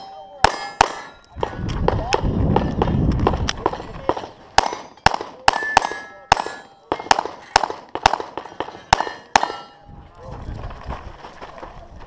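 Strings of rapid shots from a Gen4 Glock 34 pistol with a compensated barrel, each hit answered by the ring of a struck steel plate target. A low rumble rises briefly between the strings, about two seconds in and again near the end.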